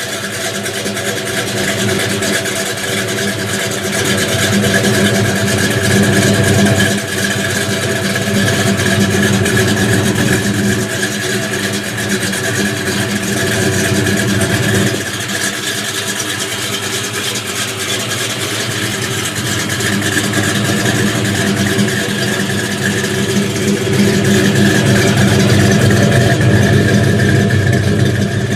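Muscle car engine running and revving, its level swelling and easing, with abrupt changes in level about seven and fifteen seconds in.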